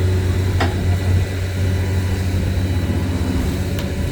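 Heavy off-road truck engine running steadily at low revs, with two brief clicks, one about half a second in and one near the end.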